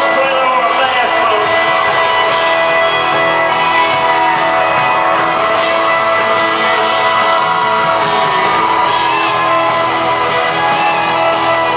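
Live country band playing an instrumental passage of the song, with guitars to the fore and shouts from the concert crowd.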